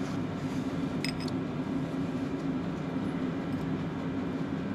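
Steady low mechanical hum, with a single brief ringing metal clink about a second in.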